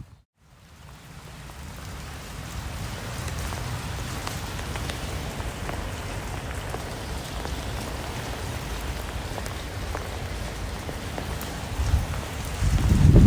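Steady rain falling, with individual drops ticking out sharply above an even hiss. It fades in from a moment of silence at the start, and a louder, low sound builds near the end.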